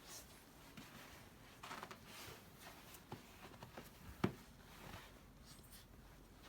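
Faint, irregular crunching of feet in deep snow, with one sharper click about four seconds in.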